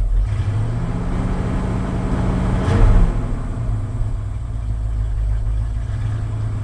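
1980 Ford F-100's 302 V8 running rough and rich after being flooded, swelling to a louder peak just under three seconds in before settling back.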